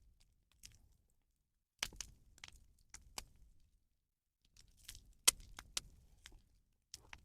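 Bonfire of burning rubbish crackling: irregular sharp pops and snaps in a few clusters, the loudest about five seconds in.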